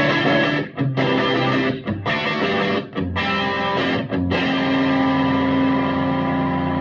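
Electric guitar played through a Vintage Sound Amp on its tweed channel: a few chords struck with short breaks between them, then a last chord left ringing.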